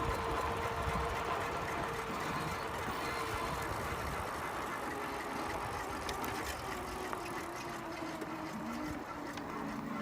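Bicycle riding noise: a steady rumble of tyres and wind, with a faint steady hum that fades out about halfway through and a short rising tone near the end.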